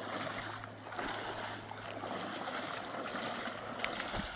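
Rushing river water, a steady even noise of flowing current.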